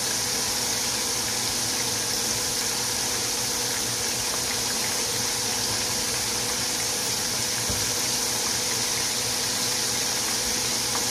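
Breaded pork chops frying in a skillet of hot oil: a steady sizzle with fine crackling.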